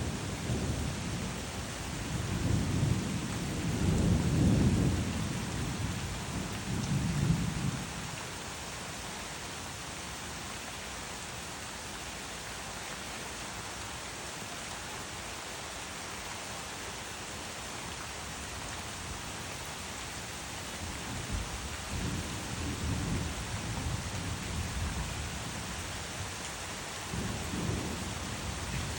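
Steady heavy rain hissing, with thunder rumbling for the first several seconds, loudest about four seconds in, then fading. Rumbles return about three quarters of the way through and continue to the end.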